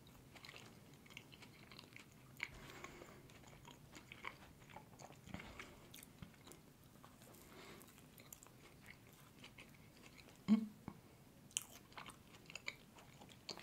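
A person quietly chewing a bite of soft glazed doughnut, with faint scattered moist mouth clicks. One brief louder mouth sound about ten and a half seconds in.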